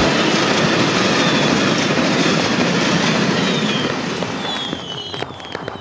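Aerial fireworks going off: a dense, continuous crackling hiss that fades from about four seconds in. Short high falling whistles and a few sharp cracks come near the end.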